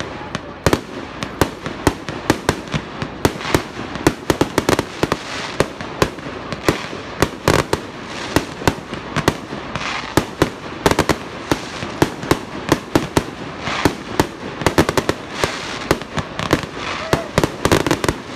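Aerial fireworks display in a rapid barrage of bangs, about three or four a second, over an unbroken wash of noise between the reports.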